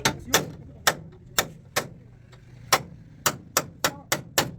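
Hammer blows on car body sheet metal, about eleven sharp strikes at uneven intervals, coming faster in the second half, as in panel-beating out a dent.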